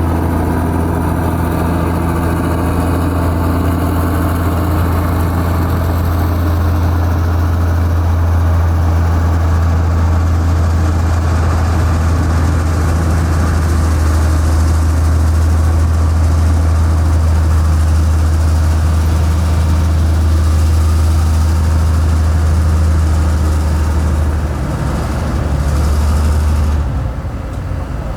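Heavy diesel engine of a construction machine or truck running steadily with a deep, low drone. It eases off slightly near the end.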